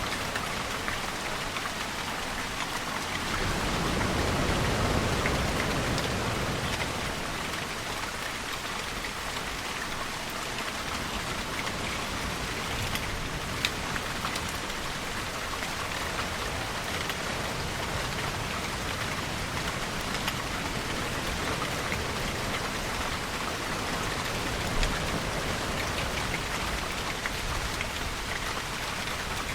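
Steady rainfall, with a few sharp single drops standing out. A deeper swell rises and fades about four to seven seconds in.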